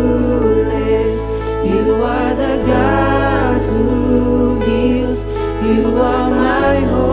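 Worship band playing a slow praise song with a singer, over sustained bass notes that change chord about every four seconds.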